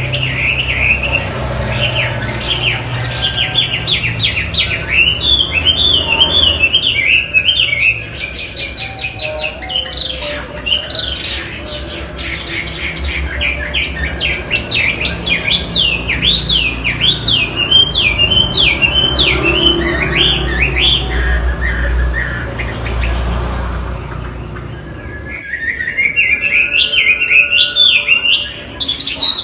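Chinese hwamei (wambi) singing a long, loud run of fast, swooping warbled phrases, breaking off briefly near the end before starting again.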